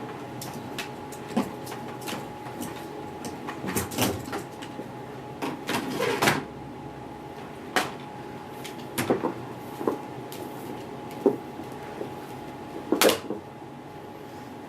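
Scattered plastic clicks and knocks as the SEBO X4 Extra upright vacuum's hose and tools are handled and clipped back into place, with one louder clunk near the end.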